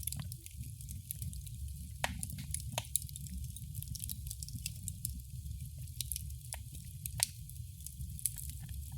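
Fireplace fire crackling: a steady low rumble of the flames with scattered sharp pops and snaps, a few louder ones about two, three and seven seconds in.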